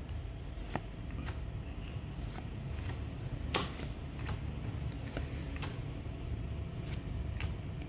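Light, irregular clicks and taps from handling a trading-card booster pack and flipping through its cards, about one or two a second, with one sharper click about three and a half seconds in, over a steady low hum.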